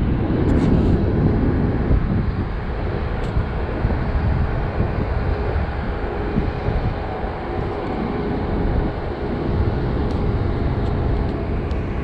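Jet airliner engines making a loud, steady low rumble.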